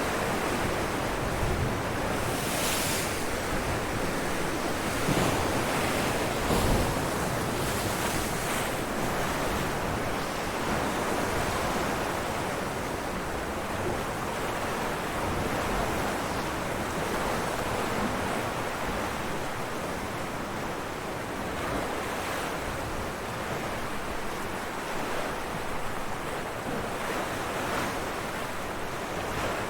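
Ocean waves breaking on rocks: a continuous rushing wash of surf, with louder surges of breaking water in the first few seconds and smaller ones later.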